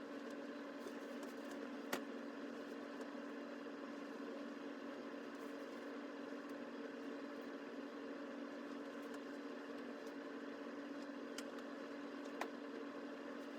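Steady machine hum from a running motor or appliance, one even droning tone with fainter overtones, broken only by two faint clicks, one about two seconds in and one near the end.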